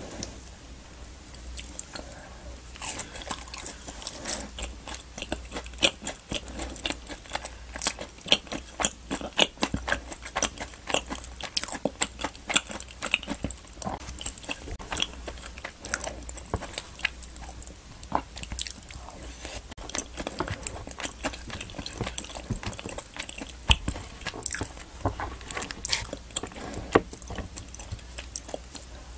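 Close-miked eating sounds: a person chewing naan dipped in butter chicken curry, with many quick mouth clicks.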